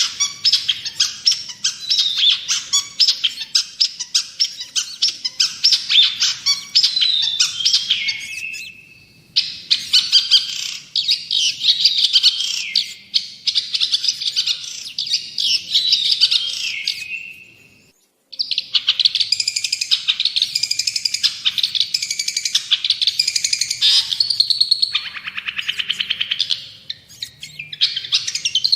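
Long-tailed shrike (cendet) singing a fast, chattering song of many rapid high notes, in three long bouts with short breaks about a third and two thirds of the way through.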